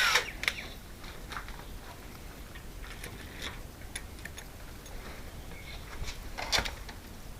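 Scattered light clicks and taps of screws and screen door lock parts being handled, with a louder short scrape about six and a half seconds in.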